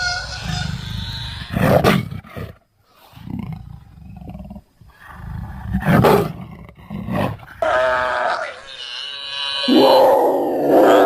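Sound-designed creature calls for Acrophoca, the extinct swan-necked seal: a string of separate animal calls, some pitched, with short pauses between them. Harsh, loud bursts come about two and six seconds in, and a long rough call comes near the end.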